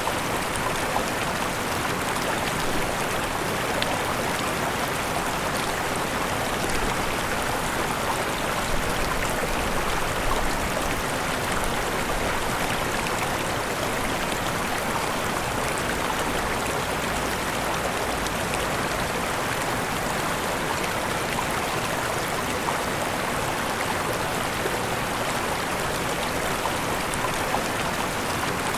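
Steady rush of falling and splashing water from a waterfall, an even hiss without pauses.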